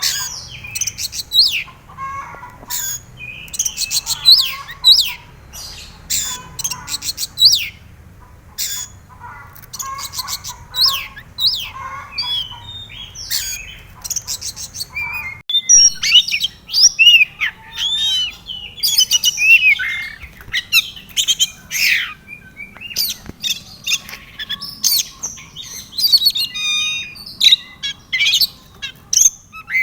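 Oriental magpie-robin (kacer) singing: a fast, varied run of chirps, whistled glides and sharp clicking notes, over a faint low hum.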